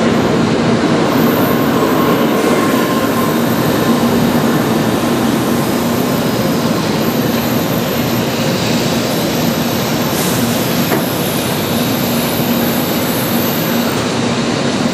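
Shinkansen bullet train rolling slowly along a station platform: a steady rumble of wheels and running gear with a low, steady hum.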